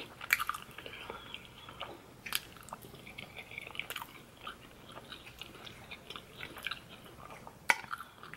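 A person chewing food, with sharp clicks scattered through; the loudest clicks come near the start and near the end.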